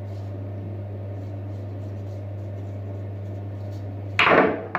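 A steady low hum, then about four seconds in a loud clatter as a shaving brush falls off and hits a hard surface.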